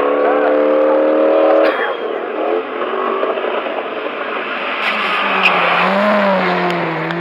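Race car engines at high revs on a circuit. A steady high engine note cuts off after about a second and a half, giving way to a rushing noisy stretch, and near the end a lower engine note rises and falls.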